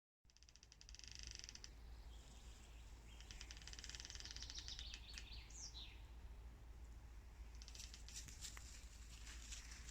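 Faint bird song: high, rapid trills in several bursts, with a short downward-sliding call about five and a half seconds in, over a low steady rumble.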